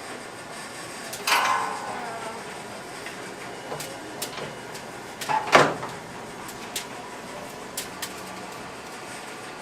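A few brief knocks and scrapes, the loudest about five and a half seconds in, with scattered light clicks over steady background noise.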